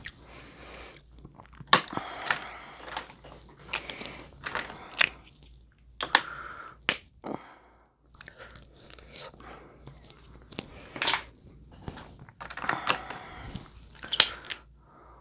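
Mukbang eating sounds from a seafood boil of crab, shrimp and sausage: chewing and biting, with irregular sharp cracks and crunches, a dozen or so scattered through.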